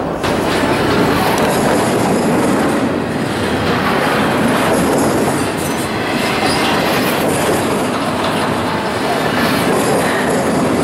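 Freight train of empty double-stack intermodal well cars rolling past close by: a steady, loud noise of steel wheels on the rails.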